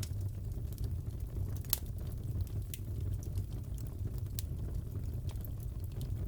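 Fireplace fire burning with a steady low rumble and scattered sharp crackles and pops, one louder pop about two seconds in.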